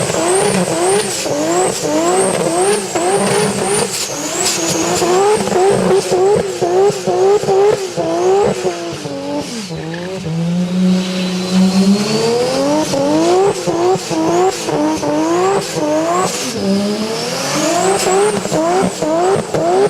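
High-revving car engine revved again and again in quick rising sweeps, about two a second, each one dropping back sharply. A high whine rises and falls with the revs. Around the middle the revs climb more slowly and hold before the quick sweeps resume.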